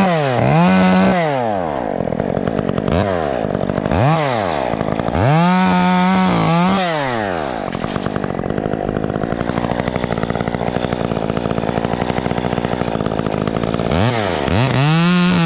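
Two-stroke chainsaw blipped up to speed and dropped back several times in quick succession, then running at lower speed for several seconds. Near the end it revs up and holds at high speed.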